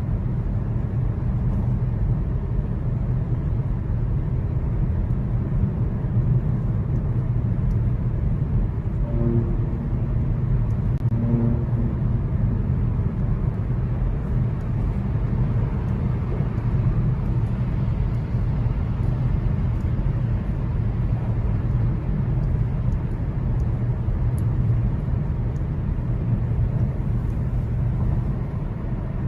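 Steady in-cabin road and engine rumble of a Genesis GV80 3.0 diesel driving at highway speed, heaviest in the low end.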